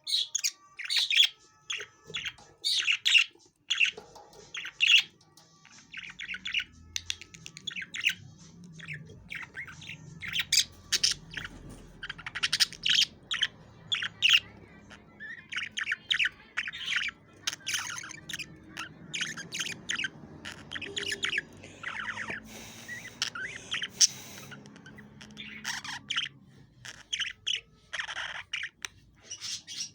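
Budgerigars chirping and chattering: a quick, continuous run of short, sharp calls with occasional squawks.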